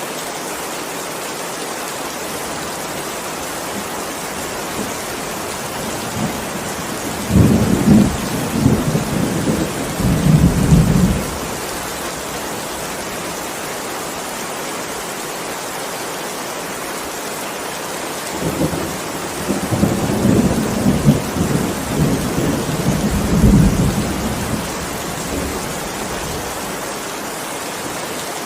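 Steady rain falling, with two rolls of thunder rumbling through it: one about seven seconds in lasting some four seconds, and a longer one from about eighteen seconds in.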